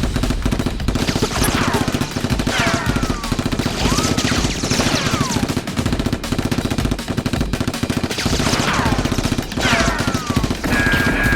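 Sustained rapid automatic gunfire, dense and unbroken, with several short falling whistles over it.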